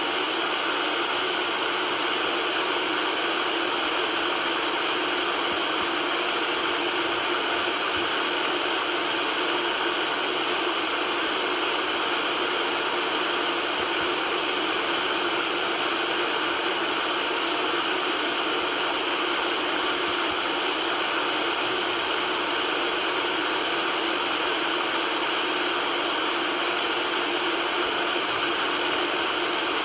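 Steady white noise: an even, unchanging hiss with most of its energy in the middle and high range and little bass.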